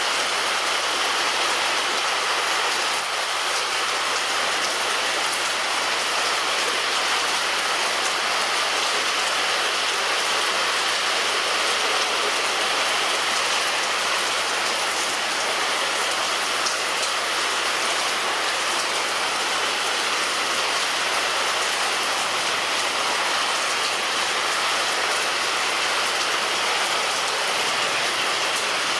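Heavy rain falling on a roof: a steady, dense hiss of raindrops that keeps an even level throughout.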